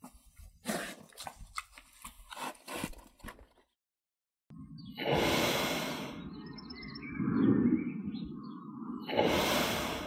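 A domestic pig snorting and grunting as it noses along the ground: two loud breathy snorts through the snout, a few seconds apart, with low grunting between them. Before it, short irregular crunching and scraping.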